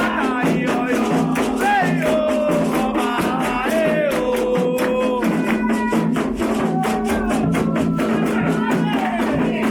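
Candomblé ritual music: a sung chant over hand drums and shaken percussion keeping a steady, fast beat.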